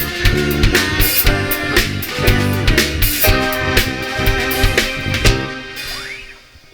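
A band playing a funk-style instrumental with drum kit, bass and guitar over a steady beat. About five and a half seconds in, the music drops away almost to silence in a short break.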